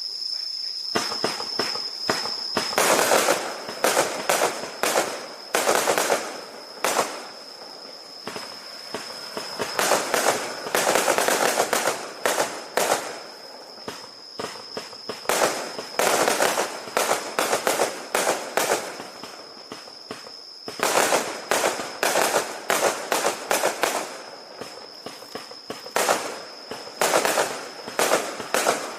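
Fireworks going off: clusters of many sharp cracks and bangs in rapid succession, several a second, with short lulls between the clusters.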